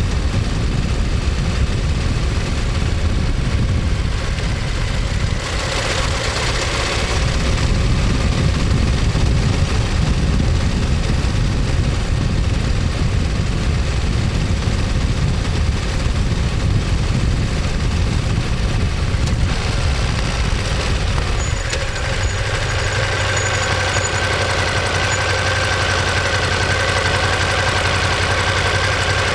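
Ducati Monster 1200S's 1198 cc L-twin engine running under way with a deep uneven exhaust note, then settling into a steady idle after about twenty seconds.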